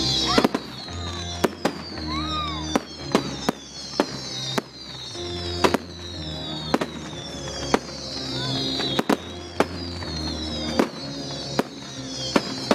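Fireworks display: many sharp bangs going off one after another at irregular intervals over loud music played with the show.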